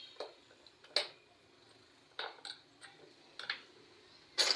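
A series of light clinks and taps from small hard objects being handled, about half a dozen spaced irregularly.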